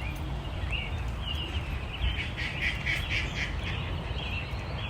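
Birds calling with short, high squawking chirps, several in quick succession about halfway through, over a steady low rumble.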